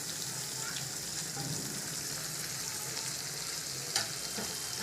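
Chicken curry sizzling steadily in a hot pan, with a short sharp knock about four seconds in.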